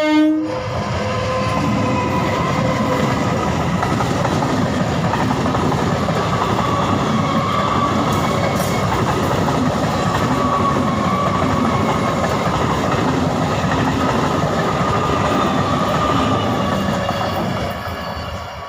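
Train passing close by: a dense, steady rumble and rattle of wheels on the track. The end of a horn blast cuts off about half a second in, and the sound eases off near the end.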